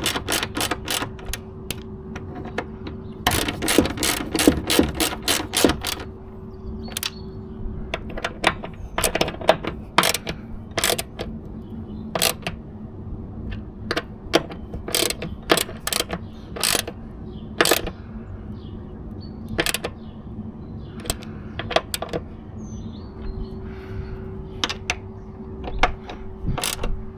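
Hand ratchet wrench clicking as bolts are turned: a quick even run of clicks a few seconds in, then single clicks and short groups of clicks with pauses between.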